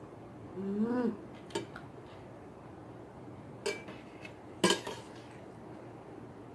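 Cutlery clinking against a bowl during eating: three sharp clinks, the last the loudest. About a second in, a short pitched vocal sound.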